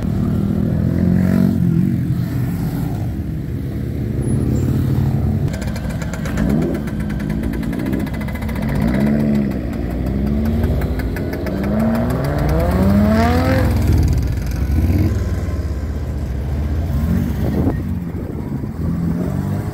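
Car engines running and revving as cars drive off one after another, over a steady low rumble. A string of revs rises and falls in pitch through the middle, the highest climbing about two-thirds of the way through, as a Lotus Evora sports car accelerates away.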